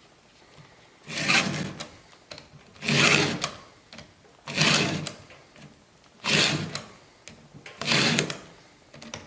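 Chainsaw chain being hand-filed with a Stihl file-guide sharpener: five even rasping file strokes about one and a half seconds apart. Pressure goes only on the forward stroke, and the file is lifted on the way back.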